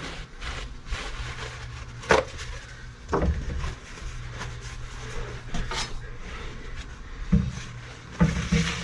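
Hard parts and tools being handled on a workbench: a few sharp clicks and clatters, the loudest about two seconds in, over a steady low hum.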